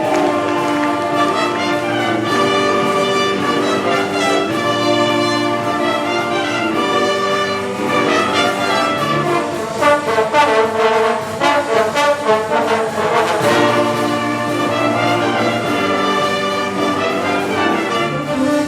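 Wind band playing, brass carrying held chords, with a run of sharp percussion hits about halfway through.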